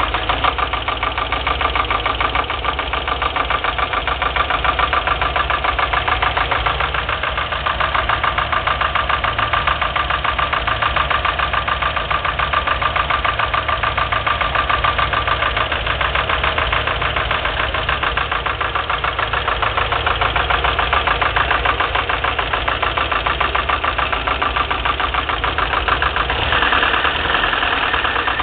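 UMZ-4215 four-cylinder petrol engine idling with a steady, rapid metallic knock in time with the engine. The knock stays when each spark plug lead is pulled in turn, and the owner cannot tell whether it comes from the camshaft and lifters or from a piston pin.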